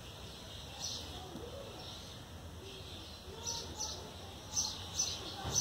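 Small birds chirping in short, sharp calls, coming more often in the second half, over faint background noise.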